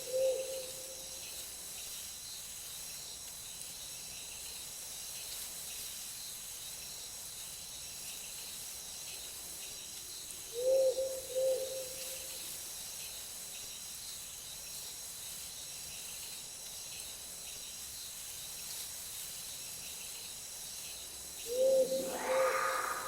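Night forest ambience: a steady high chirring of insects runs throughout, while an owl hoots a short pair of low notes roughly every ten seconds, twice in all. Near the end a second, louder call overlaps the hoots.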